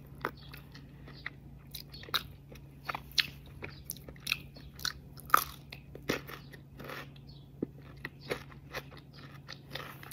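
A person chewing food close to the microphone, with irregular crisp crunches from bites of raw cucumber.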